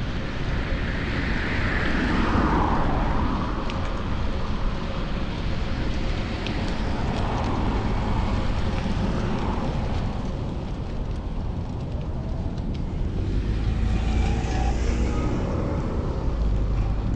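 Wind rumbling on a chest-mounted action camera's microphone while cycling through city traffic. A vehicle passes about two seconds in, and another engine note rises near the end.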